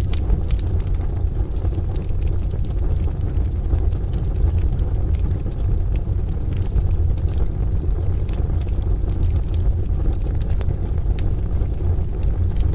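Wood fire crackling, with frequent small sharp pops, over a steady deep rumbling wash of rain.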